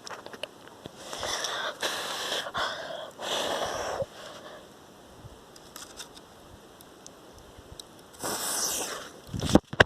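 Small firecrackers (bombinhas) being lit in a bonfire and thrown: several short bursts of hissing and crackling, then a sharp bang near the end.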